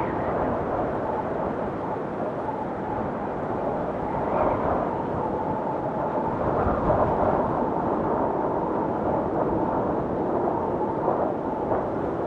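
Howling blizzard wind: a steady, dense rush that swells in gusts, louder about four and a half seconds in and again around seven seconds.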